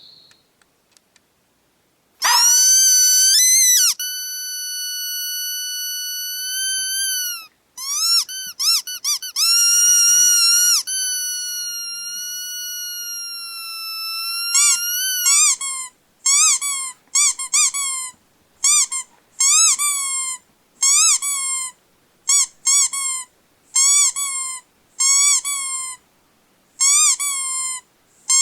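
High-pitched squeaking: a long squeal and drawn-out wavering squeaks, then a quick run of short squeaks, each rising and falling in pitch, about one and a half a second.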